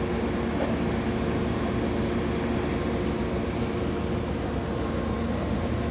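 Steady low hum of a standing Amtrak passenger train idling at the platform, with a few held tones in the drone.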